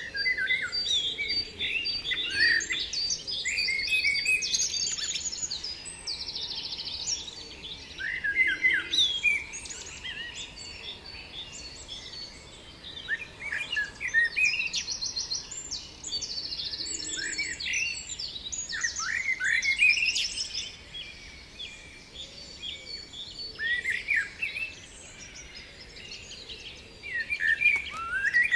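Several songbirds singing: quick falling notes and fast high trills, in phrases every few seconds over a faint steady background.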